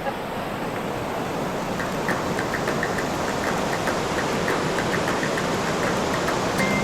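Steady rush of water from a creek cascade flowing strongly after rain, growing a little louder.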